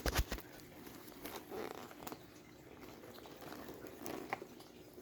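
Someone chewing a mouthful of Apple Pie Toast Crunch cereal: soft crunching with small mouth clicks, loudest in a quick cluster right at the start, then scattered quieter crunches.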